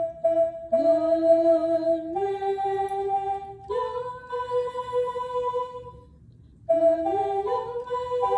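Music: a slow sung melody of long held notes that step from pitch to pitch, sliding up into one note about a second in, with a short pause about six seconds in.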